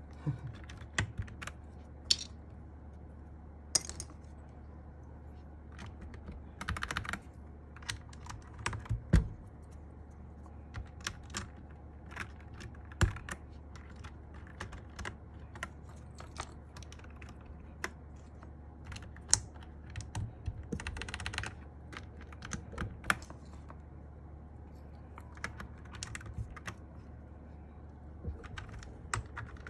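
Plastic Cherry-profile keycaps clicking and clacking at irregular intervals as they are handled and pressed onto a mechanical keyboard, with a few brief rustles.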